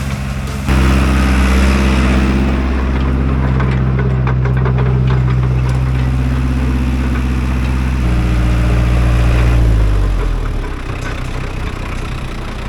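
Tractor engine running at a steady speed, with some rattling about three to five seconds in; about ten seconds in the engine note drops as the revs come down.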